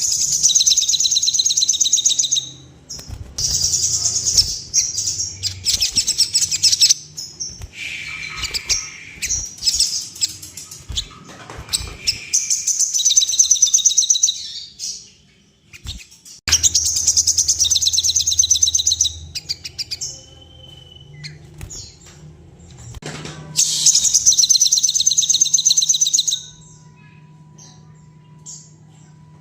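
Crimson sunbird (sogon) singing hard in a run of fast, high, trilled phrases of two to three seconds each, with short breaks between them and a longer break after the fifth.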